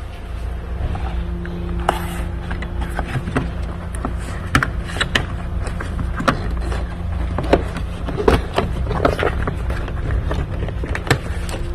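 Irregular clicks, taps and knocks of tools and plastic and metal parts being handled while an engine bay is taken apart, over a steady low hum.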